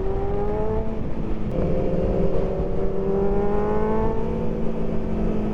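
Sport motorcycle engine pulling hard under acceleration: its pitch climbs, drops at a gear change about a second and a half in, then climbs again. Heavy wind rumble on the microphone runs underneath.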